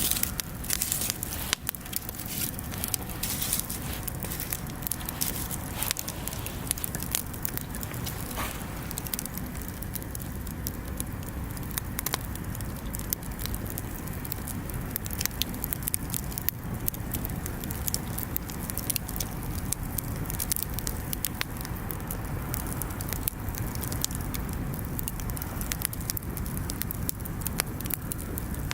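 Wood bonfire crackling, with irregular sharp pops and snaps over a low, steady noise of burning.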